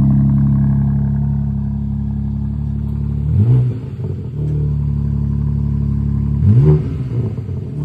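BMW M4 Competition xDrive's twin-turbo straight-six idling at the exhaust and blipped twice, a few seconds apart: each time the revs rise quickly and drop back to idle.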